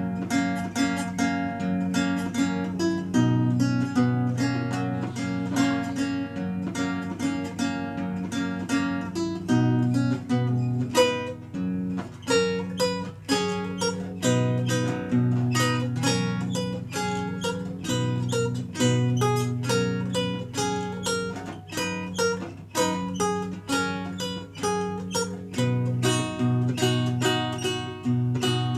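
Renaissance lute played solo: a steady stream of quickly plucked notes over a held bass line.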